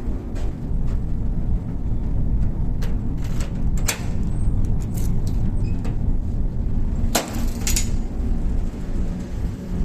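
Steady low rumble of a vehicle in motion, with a few sharp clicks, the loudest about four seconds in and a pair just after seven seconds.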